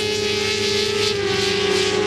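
400 cc supersport race motorcycle engines running at high revs, a steady high-pitched engine note whose pitch steps down slightly about a second in.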